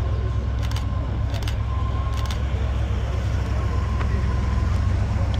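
Steady low rumble of car engines running nearby, with a few light clicks in the first couple of seconds.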